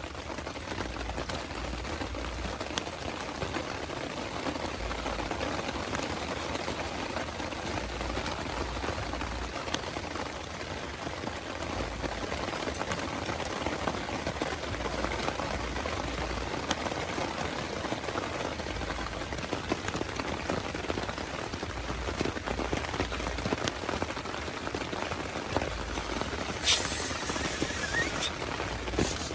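Heavy rain falling steadily, with scattered individual drop hits. About 27 s in, a brief high hiss lasting about two seconds.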